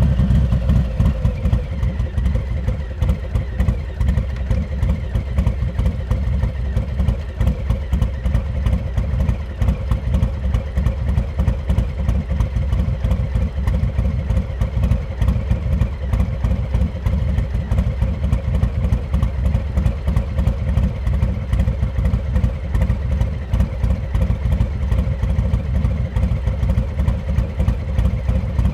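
Harley-Davidson Milwaukee-Eight 114 V-twin engine running steadily through a Rinehart exhaust, a low, pulsing exhaust note that dips slightly in level a few seconds in.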